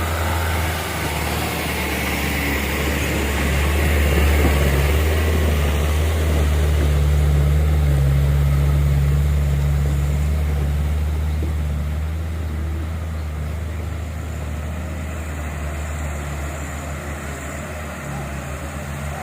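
A truck's diesel engine running hard under load, growing louder from about four seconds in and easing off after about ten seconds, as a loaded truck works through soft, rutted mud.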